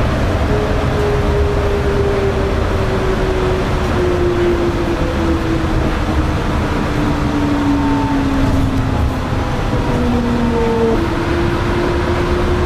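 Yurikamome rubber-tyred automated guideway train running, a steady low rumble with an electric whine that slowly falls in pitch and then jumps to a new pitch near the end.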